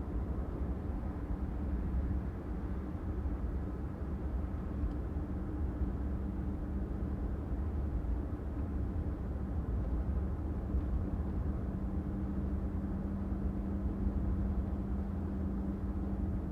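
Car driving along a city street: a steady low rumble of engine and road noise with a constant low hum.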